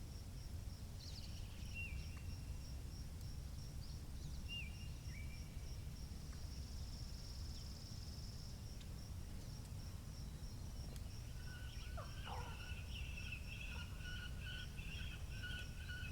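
Outdoor spring ambience: a steady low rumble of wind under small birds chirping, with a high note repeating about three times a second. About two-thirds of the way through, a bird starts a continuous warbling song.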